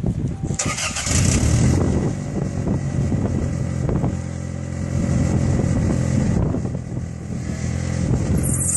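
Car engine running steadily, starting about half a second in.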